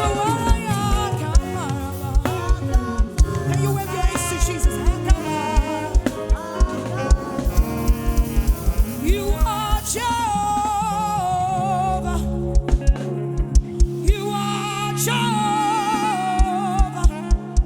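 Live gospel worship music: a wavering melodic vocal line over sustained keyboard chords and bass, driven by a steady kick drum that drops back for a few seconds in the second half.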